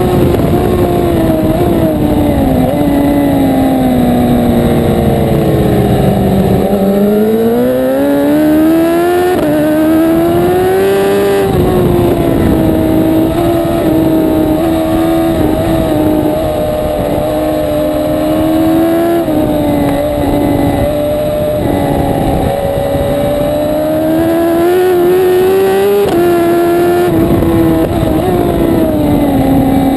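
1000 cc racing superbike engine at high revs, its pitch sinking over several seconds, climbing back, then holding fairly steady with small steps before rising and dropping again near the end: the engine slowing for corners and pulling hard out of them.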